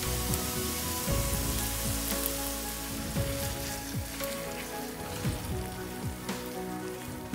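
Sliced red onions, green chillies and salmon roe sizzling in a hot frying pan, with a steady hiss, under soft background music.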